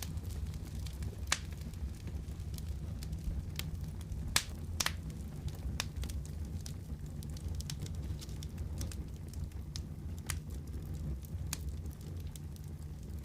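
Wood fire crackling in a fireplace: a steady low rumble of burning with frequent sharp pops and snaps, a few louder pops scattered through.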